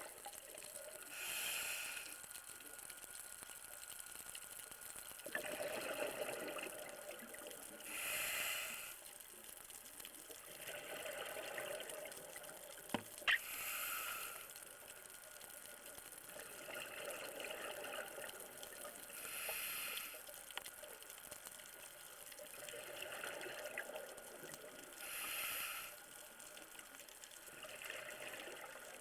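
Scuba diver breathing through a regulator underwater: a softer hiss on each inhale, then a one-second rush of exhaled bubbles, in a slow cycle about every six seconds. A single sharp click sounds about halfway through.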